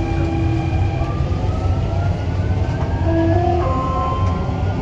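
Dubai Metro train running with a steady low rumble. Over it is a whine of several tones, one of which slowly rises in pitch, as the electric traction motors drive the train.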